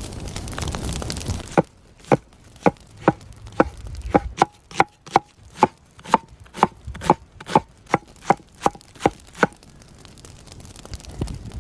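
Knife chopping on a cutting board: about twenty sharp, evenly paced strokes, two to three a second, each with a slight ring, stopping shortly before the end. A steady rushing noise comes before the chopping starts.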